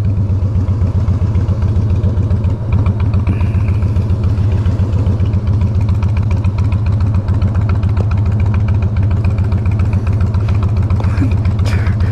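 Harley-Davidson Fat Boy's V-twin engine idling steadily with its even, lumpy firing pulses.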